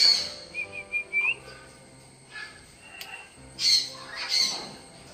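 A parrot calling: a short run of whistled chirps about a second in, then two loud, harsh squawks near the end.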